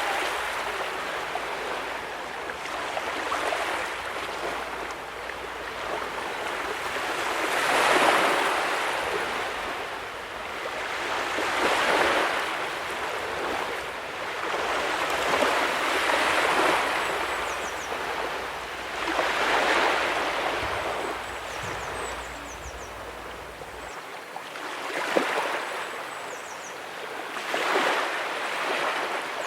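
Ocean waves breaking on a beach, the surf swelling and falling back about every four seconds.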